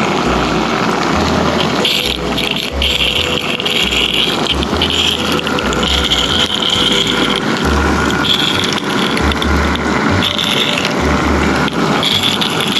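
G-scale garden railway train running along the track: a steady mechanical rattle and rumble, with a higher whine that comes and goes every second or so.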